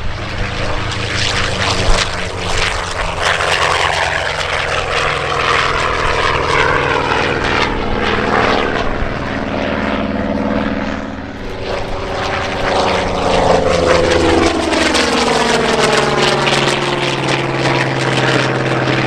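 Propeller-driven aircraft engine running loud and steady as the plane flies past, its note bending and sweeping in pitch through the second half as it goes by.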